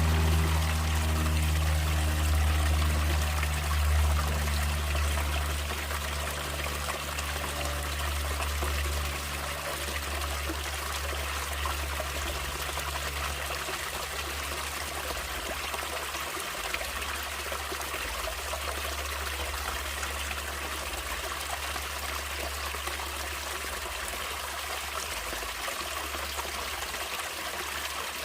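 Flowing water of a stream, trickling and splashing steadily. Soft background music fades out over the first several seconds.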